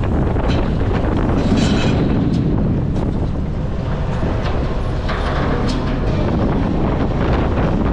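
A garbage truck's diesel engine and running gear rumbling steadily, with strong wind buffeting the microphone and a few brief clanks.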